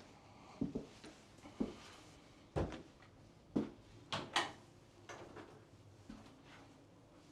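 Footsteps across a floor in a small room, about one step a second, with a couple of sharper knocks close together about halfway through.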